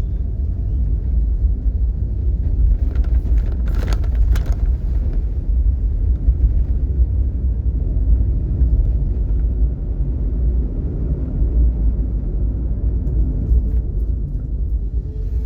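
Low, steady rumble of a vehicle travelling on the road, with a brief hiss about four seconds in.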